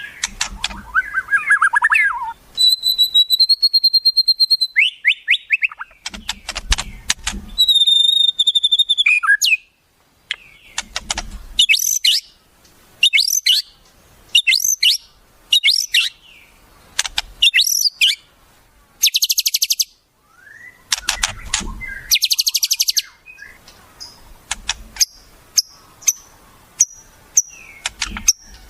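Wild songbird calls recorded as tutor song (masteran) for white-rumped shamas. The run mixes clear high whistles held for a second or two, quick sharp chirps, and two fast buzzing trills about two-thirds of the way through.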